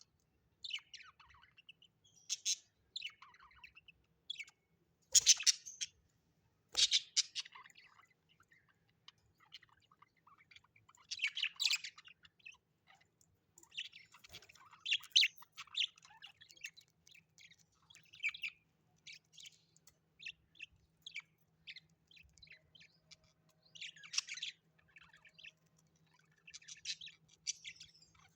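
Birds chirping and calling in quick, irregular runs of short high notes, with louder calls about five and seven seconds in and again around the middle.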